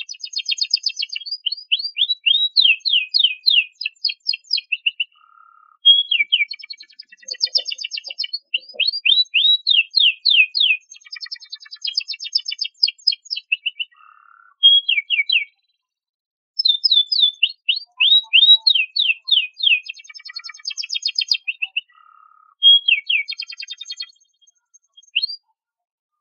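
Domestic canary singing: long bursts of rapid trills and chattering, high-pitched phrases, broken by a few short pauses of about a second.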